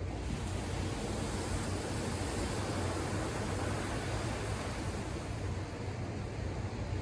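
Ocean surf: a wave breaks and washes in with a rising hiss just after the start, then eases off about five seconds in, over a steady low rumble of the sea.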